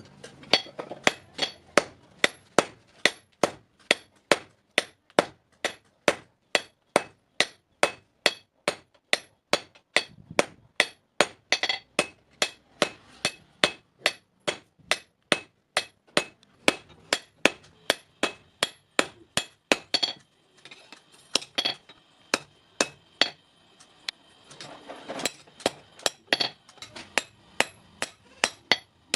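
Blacksmith's hammer striking steel on an anvil while forging a hasua blade: a steady run of sharp, ringing metal blows, about two to three a second. About twenty seconds in there is a short break with only a few strikes, then the hammering picks up again.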